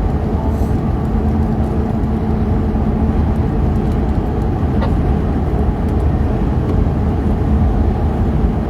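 Steady road and engine noise inside a moving car's cabin, a low drone with a constant hum through it.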